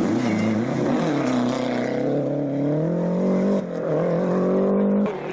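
Rally car engine accelerating hard, its pitch climbing, with a brief dip about three and a half seconds in before it climbs again; the sound drops away sharply near the end.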